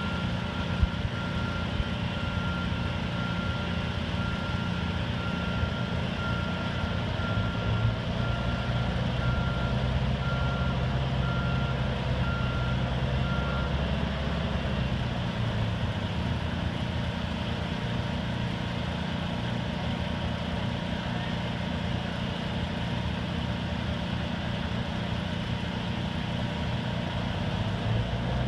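Detroit Diesel engine of an American Hoist & Derrick 9530 crane running steadily under working load, its pitch rising about eight seconds in and easing back around the middle. A back-up alarm beeps about once a second over it, stopping about halfway through.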